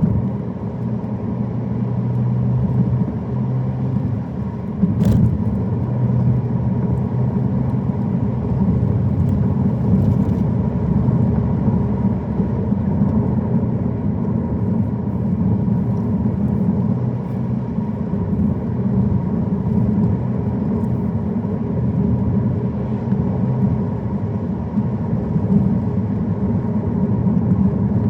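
A car driving steadily, its engine and tyre noise making a continuous low rumble, with one brief sharp click about five seconds in.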